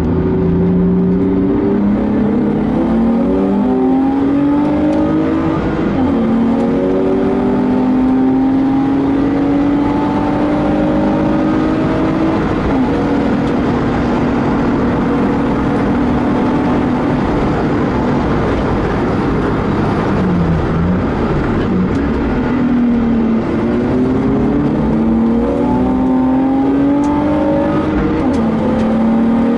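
BMW M50B25TU 2.5-litre straight-six engine, heard from inside the car's cabin, pulling hard on track. Its pitch rises and drops at each gear change and holds steady at high revs for long stretches. About twenty seconds in the revs fall away, then climb again through the gears.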